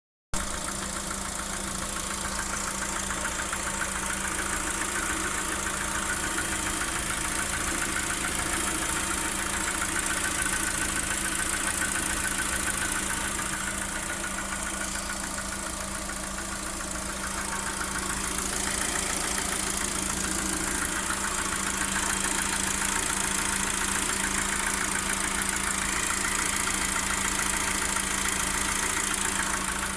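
Lada Vesta's VAZ-21129 1.6-litre 16-valve four-cylinder engine idling hot with a rapid, even knock. The knock shows only when the engine is hot and was traced to the piston group, which was replaced under warranty.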